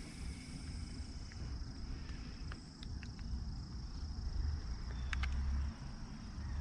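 Steady high-pitched insect drone, such as crickets, over a low rumble on the microphone, with a few light clicks near the middle and about five seconds in.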